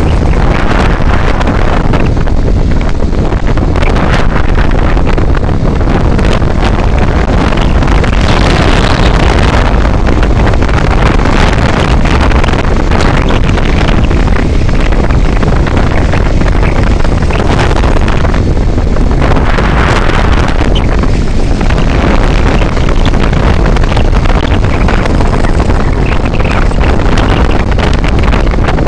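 Loud, steady wind noise on the microphone of a vehicle moving along a road, with engine and road noise beneath it.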